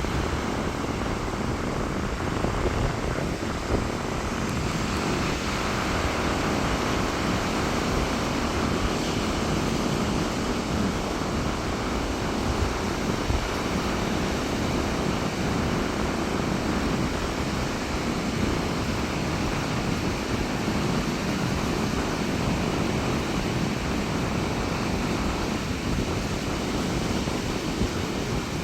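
Rough sea surf rushing and breaking onto the beach in strong wind, a continuous dense roar with gusts of wind buffeting the microphone.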